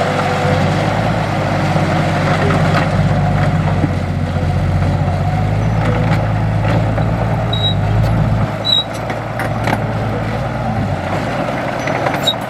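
Heavy diesel engine of earthmoving equipment running with a steady low drone. It eases off about eight seconds in and fades away near the end, with scattered clicks and a few short, high chirps over it.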